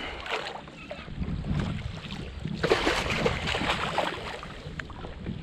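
Water sloshing and splashing around a fishing kayak, with wind on the microphone; a busier stretch of splashing and knocking from about two and a half to four seconds in.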